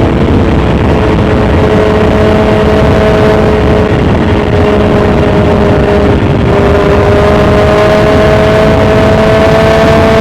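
BMW S1000XR's inline-four engine through a full Akrapovic titanium exhaust, running at steady revs under way. The note dips briefly about six seconds in, then climbs slowly.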